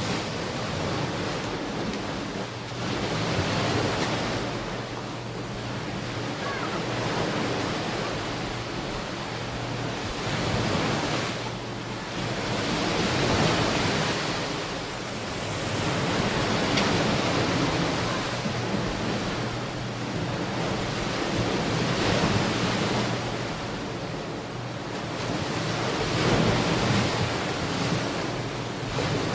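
Ocean waves washing onto a beach, a steady rushing surf that swells and eases every few seconds as each wave comes in.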